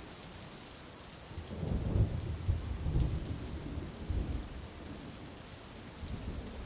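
Steady heavy rain, with a rolling thunder rumble that swells about a second and a half in, is loudest for the next couple of seconds and dies away, then a smaller rumble near the end.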